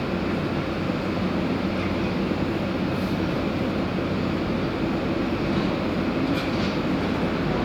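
Airbus A320 jet engines running with a steady, even noise.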